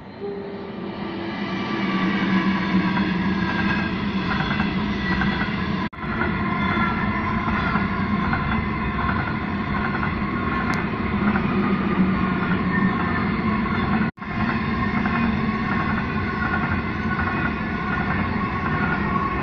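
A long coal train with locomotives at the head and mid-train passing close by: a steady rumble of wheels on rail with several high steady tones above it. It swells over the first couple of seconds as the lead locomotive draws level, and the sound cuts out for an instant twice, about 6 and 14 seconds in.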